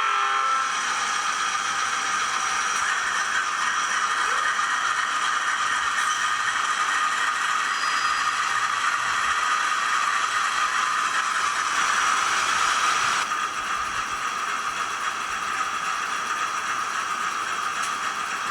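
SDS Models NR class model diesel locomotive with DCC sound running, a steady mechanical rattle that drops in level about thirteen seconds in.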